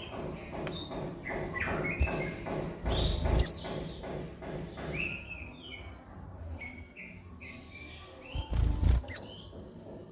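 Kolibri ninja sunbird singing a quick series of high chirps and twitters, with two sharp, loud high notes, one about three and a half seconds in and one near the end.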